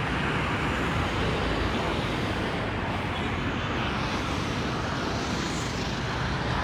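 Steady road traffic noise, a continuous wash of passing vehicles.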